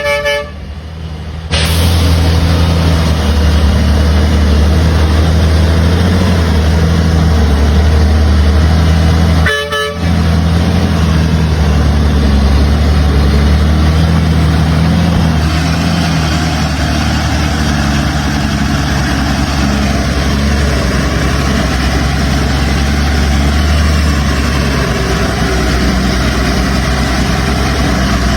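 Heavy truck engine running loud and steady, with a short pitched horn toot right at the start and another about ten seconds in.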